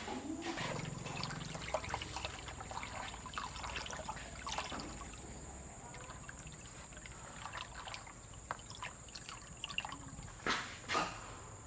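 Liquid trickling, with a scatter of small clicks and two louder knocks near the end.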